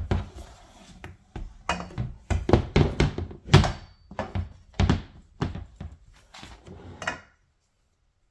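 Irregular knocks and thunks from a folding mini trampoline's frame and parts being handled during setup, stopping abruptly about seven seconds in.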